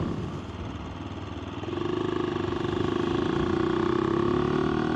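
AJP PR7's single-cylinder engine running on the move. It eases off for a moment near the start, then picks up again about two seconds in and runs at a steady pitch.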